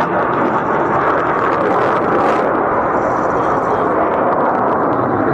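Fighter jet's engines running at high power, a loud, steady rushing roar.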